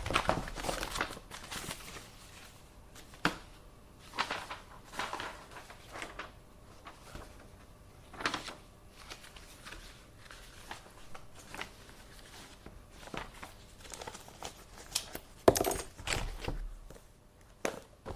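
Office desk sounds: paper being handled and rustled in irregular bursts, with scattered sharp clicks and light knocks.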